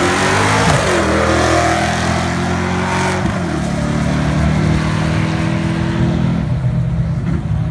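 A car engine accelerating hard, its pitch climbing and dropping back twice, as with gear changes, then holding steady before fading about six and a half seconds in.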